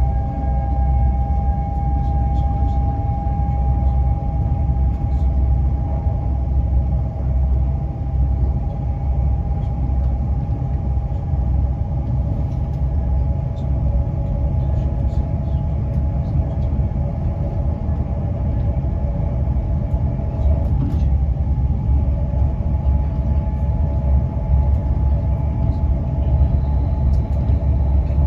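Class 350 Desiro electric multiple unit running at speed, heard from inside the passenger saloon: a steady low rumble of wheels on the rails, with a steady traction-motor whine of several tones above it.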